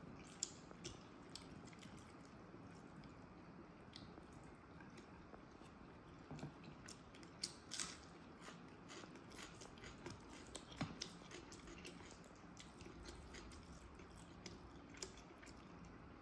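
Faint, close-up chewing and wet mouth clicks of a person eating biryani rice and chicken curry by hand, with irregular sharp clicks scattered throughout.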